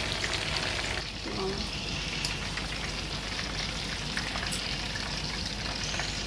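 Breaded chicken strips frying in hot oil: a steady sizzle with fine crackling pops.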